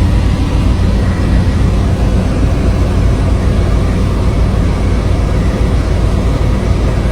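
Strong wind blowing across the microphone: a steady, loud low rumble with a hiss above it, without let-up.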